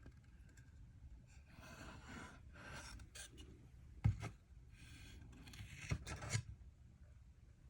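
Curly maple cut-off boards being handled: several scraping rubs as the wood slides against wood or a surface, with a few dull knocks. The loudest knock comes about four seconds in.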